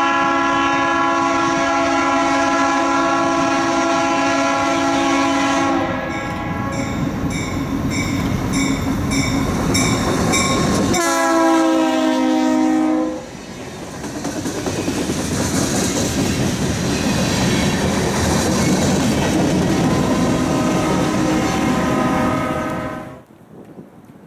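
Locomotive air horn sounding a long blast as a train approaches, its chord dropping in pitch as the locomotive passes, followed by the rumble and clatter of the train's wheels on the rails. The horn sounds again near the end before everything cuts off suddenly.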